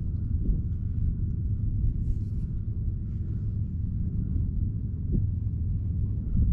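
Wind buffeting the microphone: a steady, uneven low rumble, with a brief faint hiss about two seconds in.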